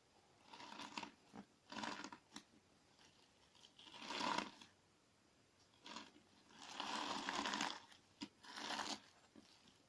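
Clear slime mixed with crunchy sand being squished and pressed, giving grainy, crackling crunches in about five separate bursts with short quiet pauses between; the longest and loudest are around four seconds in and around seven seconds in.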